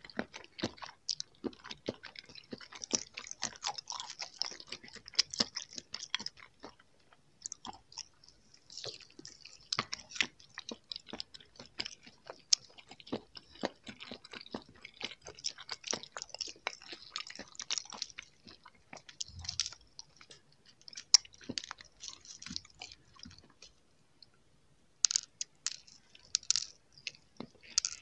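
Chewing of soft jelly candies (gummies), heard close up as continuous small sticky, clicky mouth sounds. After a short pause near the end come a few sharper crunchy bites into a gummy coated in sugar-strand sprinkles.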